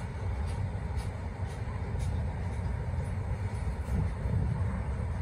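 Freight train's covered wagons rolling past on the rails: a steady low rumble with faint wheel clicks about twice a second.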